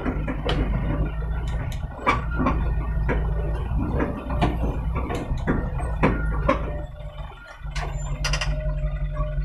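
Loaded truck's engine running with repeated metallic clanks and knocks about every half second. The engine sound drops away briefly about seven seconds in, then picks up again.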